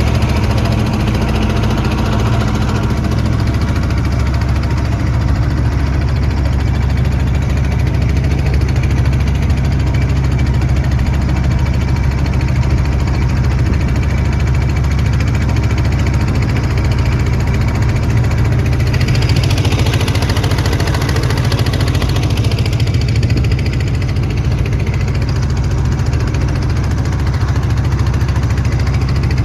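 A boat engine running steadily with a deep, even sound. A hissing rush joins it briefly about two-thirds of the way through.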